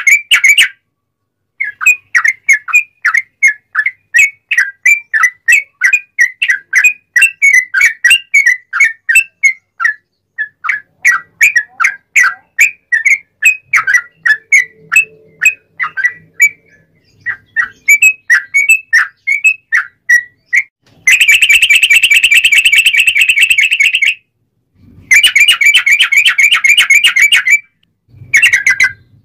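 Yellow-vented bulbul (trucuk) singing loudly in the ringing style keepers liken to the straw-headed bulbul (cucak rowo): a long string of short, quick whistled notes, a few a second. About two-thirds of the way in it breaks into two dense, rapid warbling runs of a few seconds each.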